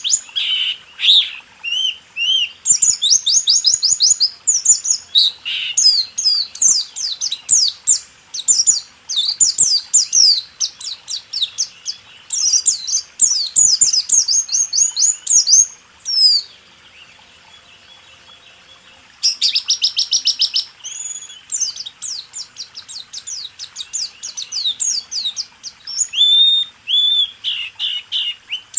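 Pleci (white-eye, Zosterops) singing a rolling 'rol tembak' master song: long runs of rapid, high chirps and quick falling notes. There is a break of about three seconds a little past the middle.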